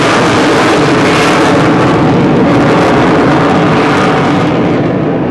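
Avro Vulcan B2's four Bristol Olympus turbojets running loud as the jet bomber makes a low overshoot pass and climbs away, the roar beginning to fade near the end.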